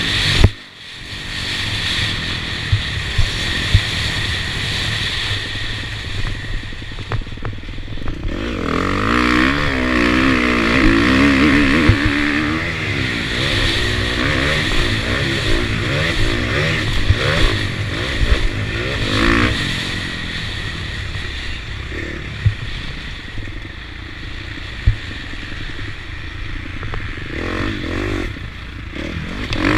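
KTM motocross bike's engine revving up and down as it is ridden around the track, heard from a helmet-mounted camera with a steady rush of wind noise. There is a loud sharp knock about half a second in, and scattered clatter throughout. The engine's rising and falling pitch is clearest in the middle stretch.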